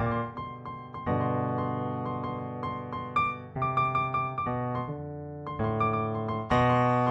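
Background piano music: sustained chords that change every second or so, each note fading slowly.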